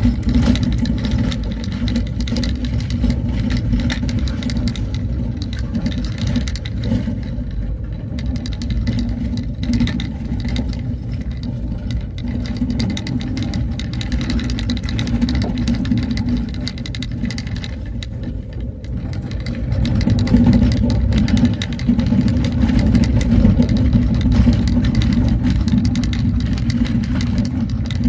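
A vehicle's engine running steadily while driving along a road, growing louder about twenty seconds in.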